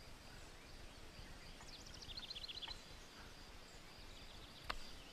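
Quiet outdoor ambience with a bird's brief trill of about ten rapid high chirps about two seconds in, and a single sharp click near the end.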